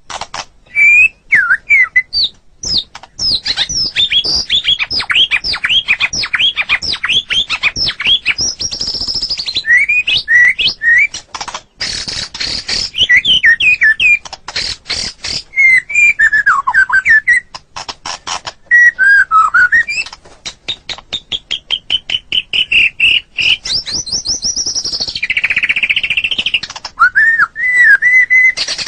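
White-rumped shama (murai batu) singing a long, varied song of clear whistled phrases gliding up and down and fast runs of rapidly repeated notes, with only brief pauses between phrases.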